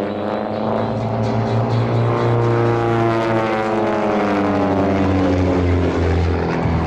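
A pair of Van's RV-8 propeller aircraft flying past in formation. Their engine and propeller drone sweeps up and down in pitch as they pass.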